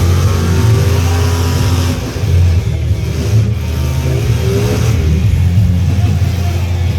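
Truck engines running loudly with a heavy, steady low rumble, their revs rising and falling.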